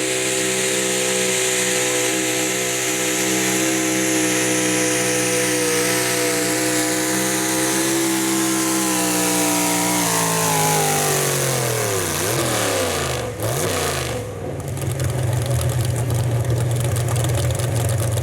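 A super stock 4x4 pulling truck's engine held at high revs for about ten seconds, as under full throttle on a pull. The revs then fall away over a few seconds as the throttle comes off, and the engine settles to a lower, steady run.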